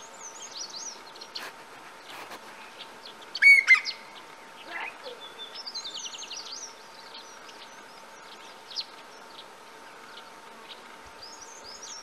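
Wild birds calling: many quick high chirps, with one loud sharp double call about three and a half seconds in and a quick run of repeated twittering notes about six seconds in.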